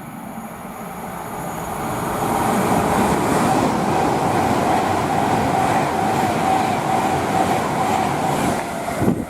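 Avanti West Coast Class 390 Pendolino electric train moving through the station. Its noise builds over the first couple of seconds, then holds loud and steady with a steady whine.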